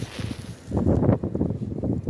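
Wind buffeting the microphone in irregular gusts of low rumble by the sea.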